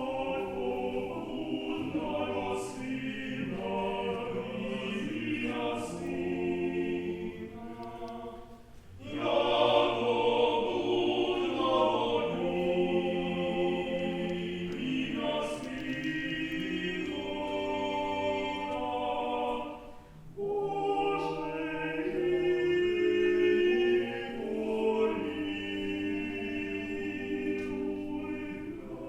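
A choir singing unaccompanied in held, layered chords, in phrases that break off briefly about nine and twenty seconds in.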